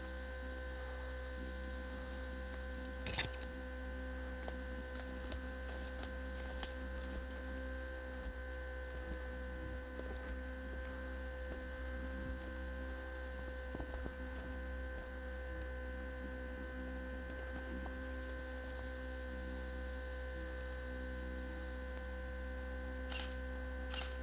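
Steady electrical hum with a few short, faint clicks scattered through it.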